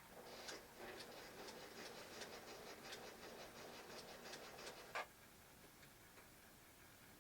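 Sears Kenmore sewing machine running briefly with a soft whir and a steady ticking of about two to three ticks a second. It stops about five seconds in with one sharp click.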